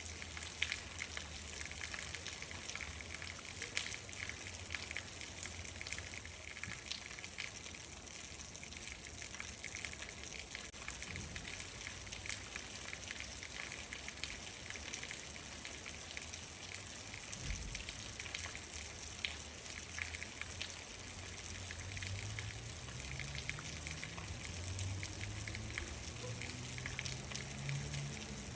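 Steady rain falling, a continuous hiss with many sharp individual drop impacts. A faint low hum rises in pitch over the last several seconds.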